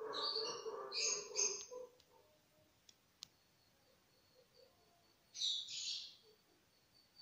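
Short, high bird chirps in two clusters, in the first second and a half and again a little past five seconds, with a lower, steadier call under the first cluster. A single sharp click comes about three seconds in.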